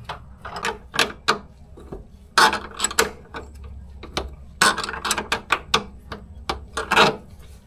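Hand ratchet wrench clicking in irregular runs of strokes as the fuel tank strap bolts are tightened.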